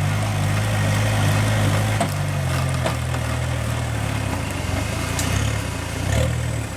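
Off-road 4x4's engine running steadily at low revs. Its note drops slightly about two and a half seconds in and picks up briefly near the end, with a few light knocks over it.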